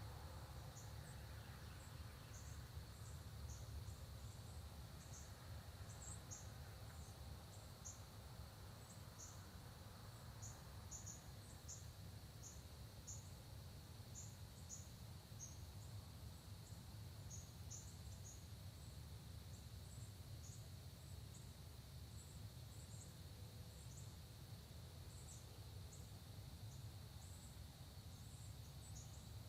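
Faint dawn countryside ambience: a steady, high insect drone under many short, high chirps scattered throughout, with a low rumble beneath.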